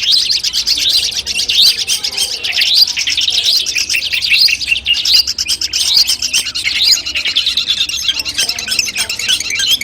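Long-tailed shrike (cendet) singing a continuous, rapid song of many quick high notes with short rising sweeps.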